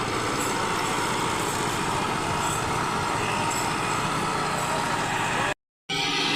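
Tractor engine running steadily under load while pulling a loaded sugarcane trolley. Near the end the sound drops out completely for a fraction of a second.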